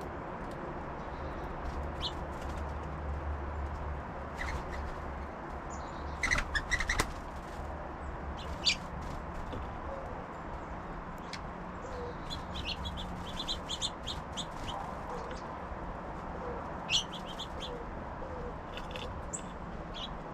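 Small songbirds at a backyard feeder: a quick cluster of wing flutters and taps about six seconds in, a few single sharp taps, and short high chip calls scattered through the second half, over a steady low hum.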